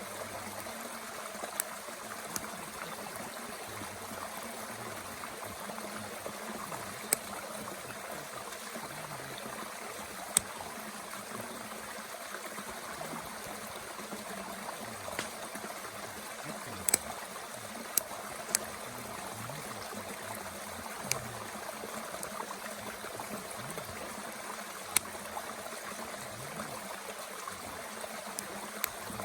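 A mountain stream running steadily, with sharp, irregular pops and crackles from a wood fire burning in a Bushbox stove, about a dozen over the stretch.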